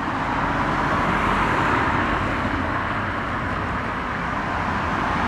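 Jet airliner engines making a steady rushing noise, with no rise or fall in level.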